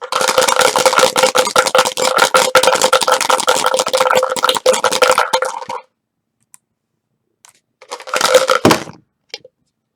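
A pair of dice rattling rapidly in a shaker cup for about six seconds, then a short clatter and thump about eight seconds in as they are rolled out.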